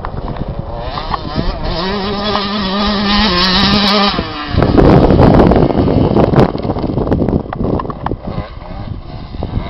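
Motocross bike engine revving up and holding steady, then a loud rush of engine and noise about halfway through, after which the engine runs quieter.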